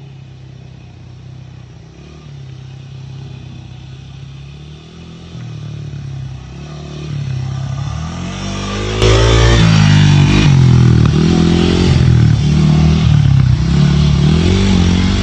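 A motorcycle engine running, the level climbing gradually. About nine seconds in it turns much louder, with the pitch rising and falling repeatedly as it is revved.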